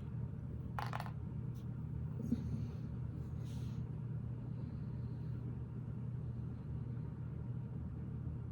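A steady low room hum, with a few faint clicks and rustles of small plastic Lego pieces being handled in the first few seconds.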